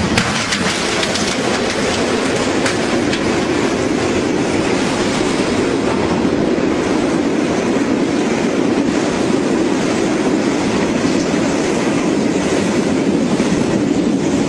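A train running along the track: a steady, even noise, with a few sharp wheel clicks in the first few seconds.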